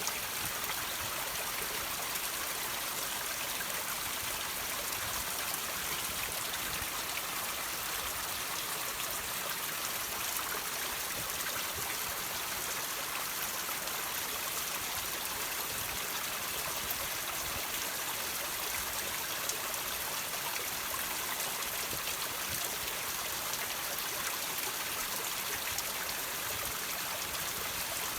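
Water trickling and dripping over rocks: a steady, even patter-and-hiss of running water with no let-up.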